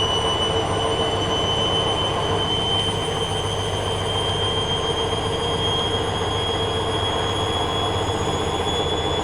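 Hoover Dynamic Next washing machine spinning at high speed on its 1500 rpm spin, with a steady high motor whine that creeps slowly upward in pitch over a constant rumble from the drum.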